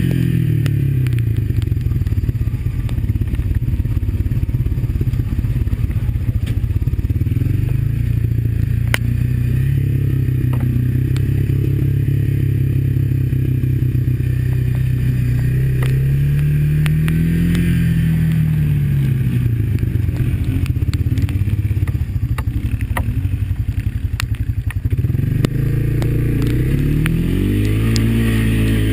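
Honda ATV's single-cylinder engine running steadily while riding, revving up and dropping back about two thirds of the way through and rising again near the end, with scattered clattering knocks over it.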